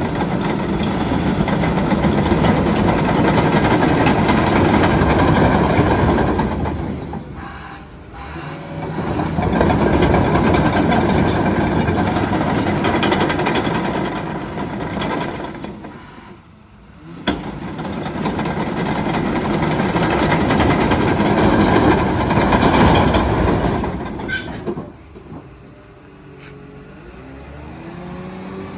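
Komatsu D61PXi-24 bulldozer with its diesel engine running, a loud steady machine noise that swells and fades several times. It cuts out briefly about sixteen seconds in. Near the end it drops to a quieter engine note whose pitch wavers.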